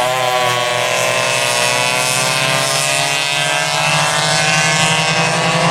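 Vintage rear-engine racing go-kart engines running at high revs, a steady buzzing drone whose pitch slowly sinks.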